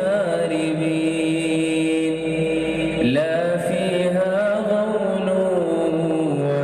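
A man's voice reciting the Quran in a slow melodic chant (tajweed), holding long notes that bend and ornament in pitch. A new phrase begins with a rising glide about three seconds in.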